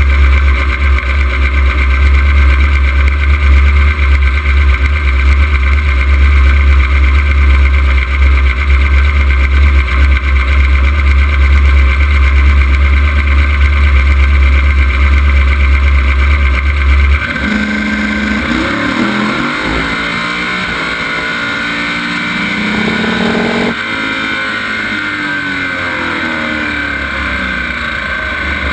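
Drag-race Camaro's engine, heard from inside the car, running steadily with a heavy low rumble. About two-thirds of the way in the sound changes abruptly to a quieter engine note whose pitch sweeps up and down, breaks off once and then sweeps again.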